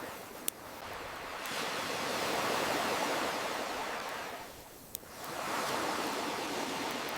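Ocean waves washing in and receding, swelling twice, with a campfire giving two sharp pops, about half a second in and again near five seconds.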